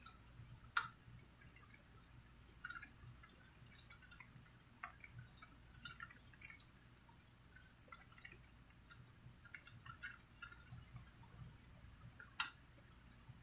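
Faint, sparse water drops dripping at irregular intervals, with two sharper drips about a second in and near the end.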